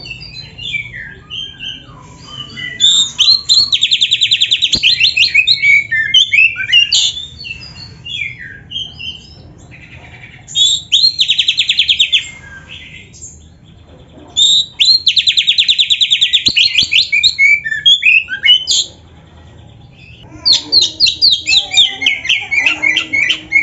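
Oriental magpie-robin (kacer) singing: loud, fast rattling trills repeated four times, with short varied chirps and whistled notes in the gaps between them.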